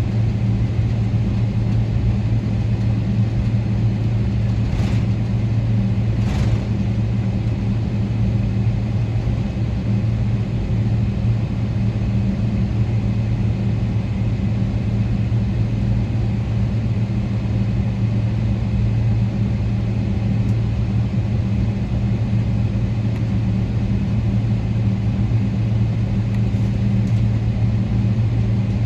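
Steady drone of a Boeing 777-300ER's GE90 engines and airflow heard inside the passenger cabin, a constant low hum under a noise haze, with two faint clicks about five and six seconds in.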